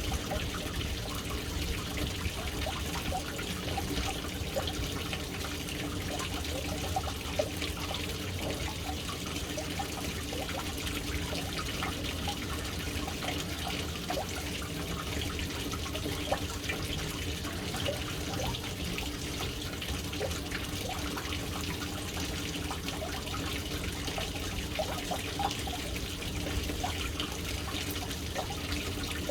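Water falling steadily into a household water tank, an even splashing and trickling with a low rumble beneath.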